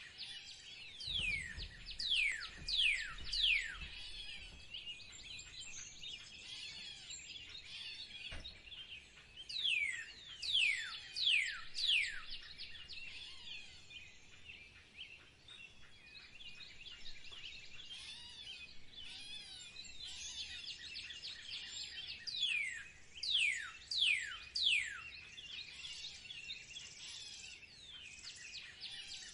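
Several songbirds singing: a continuous background of chirps, with a louder bird repeating a phrase of about four sharp downslurred whistles every ten seconds or so.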